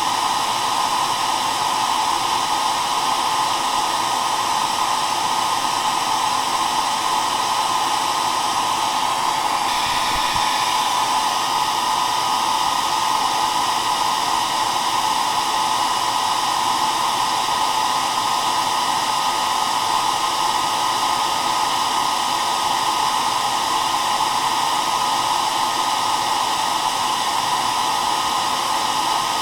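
Hair dryer running steadily: a constant rush of air with a motor whine, with a brief waver in its higher tones about ten seconds in.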